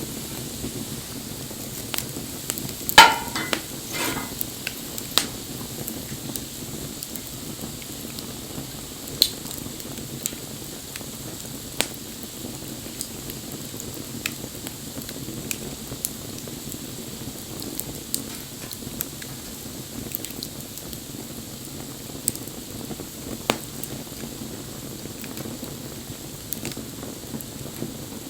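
Bonfire burning with a steady crackling hiss and scattered sharp pops, the loudest cluster of pops about three seconds in.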